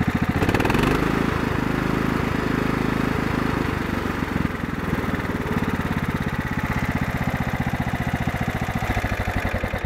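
Husqvarna LTH140 lawn tractor engine running just after a first start, picking up speed about half a second in and then running steadily with an even firing beat. The owner wonders whether it is flooding and suspects a float needle stuck partly open.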